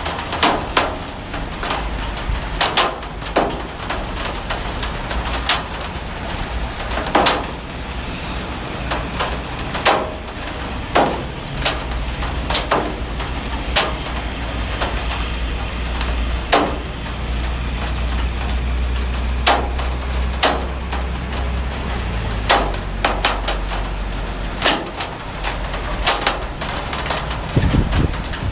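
Heavy rain: a steady hiss with a low rumble underneath, broken by frequent loud, irregular splats of large drops striking a hard surface.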